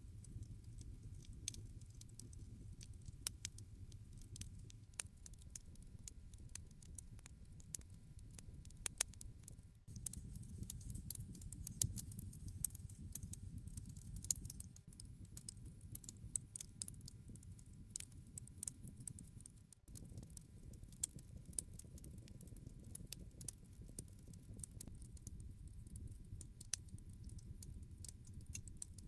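Wood campfire burning, with irregular sharp crackles and pops over a low steady rumble of the flames.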